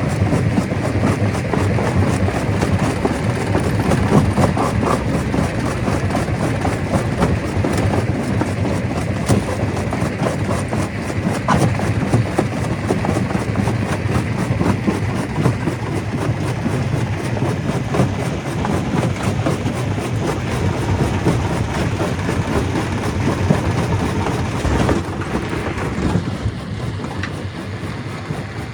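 Stone crusher running and crushing rock: a steady, heavy machine noise with dense knocking and rattling throughout, a little quieter for the last few seconds.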